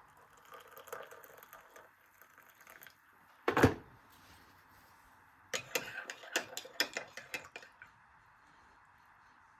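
Kitchenware being handled: soft rustling, one loud knock about three and a half seconds in, then a quick run of light clinks and clatters of dishes and utensils.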